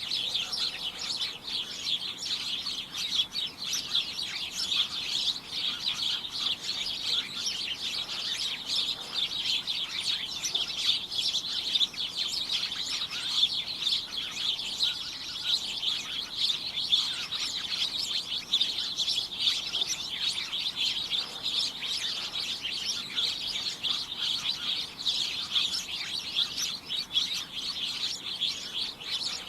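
A group of small birds chirping away together in a dense, cacophonous chorus of many short overlapping chirps with no pauses.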